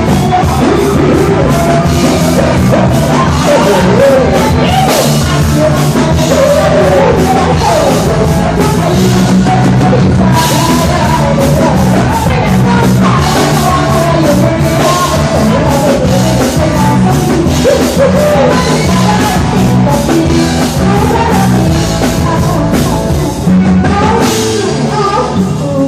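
A live band plays a loud, up-tempo dance song with a drum kit and a singer's voice over it.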